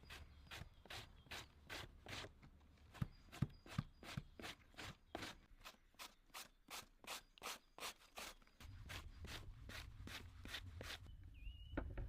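Knife shredding cabbage on a cutting board in quick, even strokes, about three a second, that stop about a second before the end.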